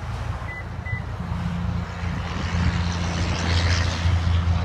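A steady low engine drone that grows gradually louder, with a hiss above it. Two short high beeps about half a second apart sound near the start.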